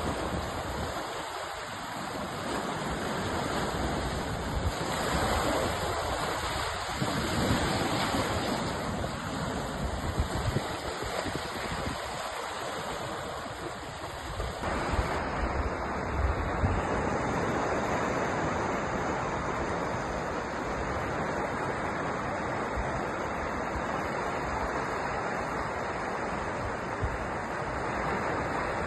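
Sea waves washing and breaking on a shore in a continuous surf wash that swells and eases. About halfway through, the sound's texture changes abruptly.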